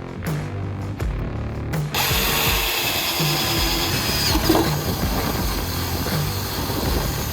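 Power drill boring into the Jeep Wrangler's tailgate through the mounting template, starting about two seconds in and running steadily. Background music with a steady beat plays throughout.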